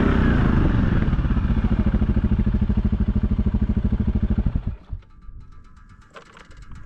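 Stihl 500i two-stroke chainsaw coming down from high revs to a fast, pulsing idle, then shutting off abruptly about two-thirds of the way in, leaving only a few faint clicks.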